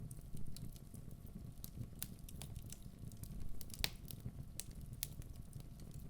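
Wood fire burning in a fireplace: a low steady rumble of the flames with scattered sharp crackles and pops from the logs, one louder pop a little under four seconds in.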